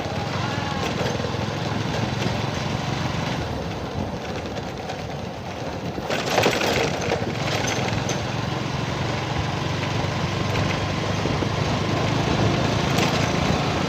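A small engine running steadily, with a louder rush of noise about halfway through.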